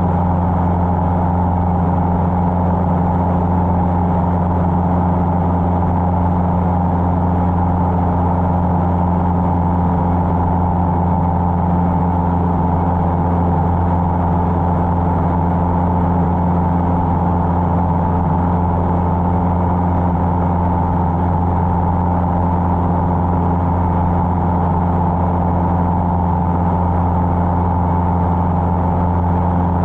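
Cessna 150's Continental O-200 four-cylinder engine and propeller, a steady unchanging drone in cruise flight.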